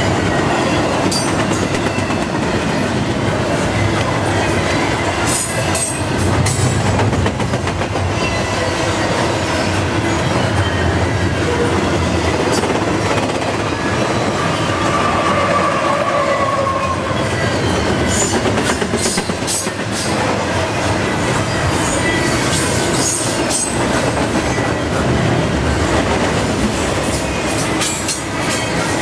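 Double-stack container well cars of a freight train rolling past at speed: a steady, loud rumble of steel wheels on rail, with many sharp clicks. A mid-train distributed-power diesel locomotive passes about halfway through, and a brief high whine rises out of the rail noise around then.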